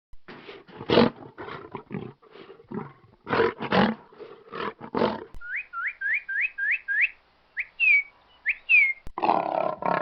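Lion roaring as a run of short, separate calls about half a second apart. Partway through, the calls stop and a string of quick rising whistle-like chirps is heard, about three a second. The lion's calls start again near the end.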